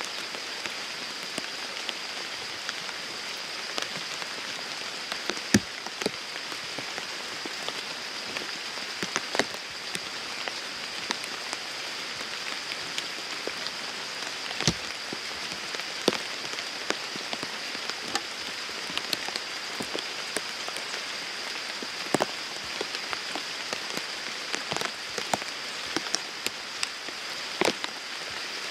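Steady rain falling, an even hiss with single heavy drops striking close by at irregular moments.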